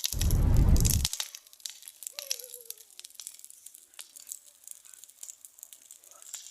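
Bonfire of pine branches and leaves crackling, with many sharp irregular snaps and pops. A loud low rumble lasts about a second near the start.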